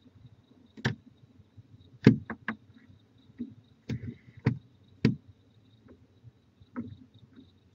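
A series of sharp knocks and taps, about eight, unevenly spaced, the loudest about two seconds in, over faint crickets chirping.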